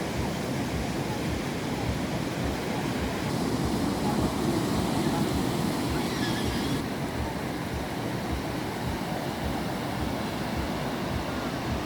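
Sea surf washing steadily, with wind buffeting the microphone in an uneven low rumble.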